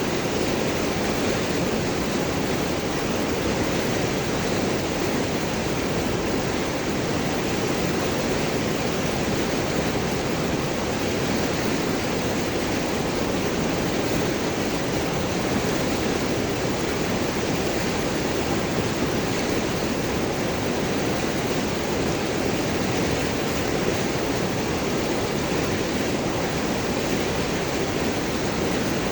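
River water rushing and gurgling over and around large rocks: a steady, unbroken rush.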